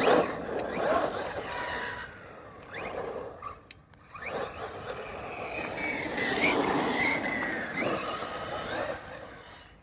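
JLB Cheetah RC buggy's brushless motor whining up and down in pitch as the throttle is worked, over tyre noise on the ground. The sound drops away briefly a few seconds in.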